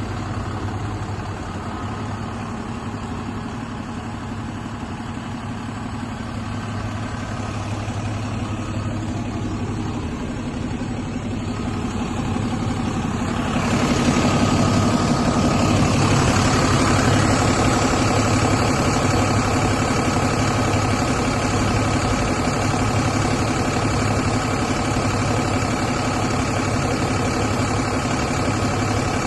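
DAF CF 290 truck's six-cylinder diesel engine idling steadily. It grows noticeably louder and brighter about halfway through, then holds steady.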